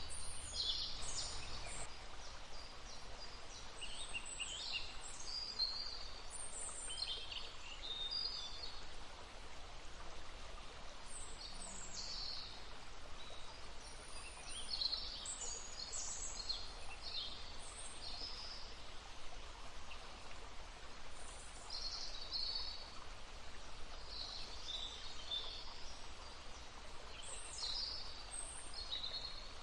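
Songbirds singing short, high chirping phrases again and again over the steady babbling of a stream.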